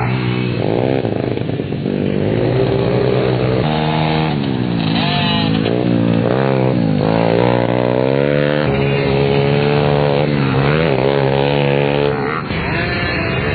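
Pit bike's small single-cylinder engine revving up and dropping back over and over, its pitch climbing and falling every second or two as the throttle is opened and closed.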